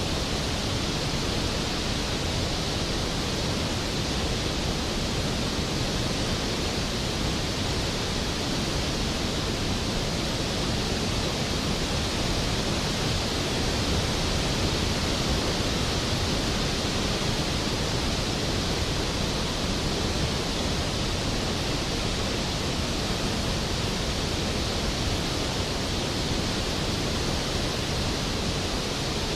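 Large waterfall, Skógafoss, a steady dense rush of falling water with no breaks or changes.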